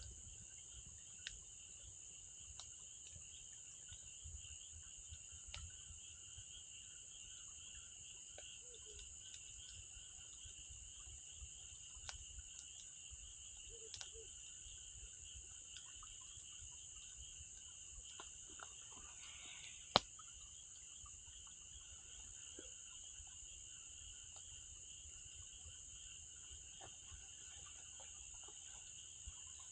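Insects chirring steadily at two high pitches, with scattered faint crackles from a wood campfire and one louder pop about 20 seconds in.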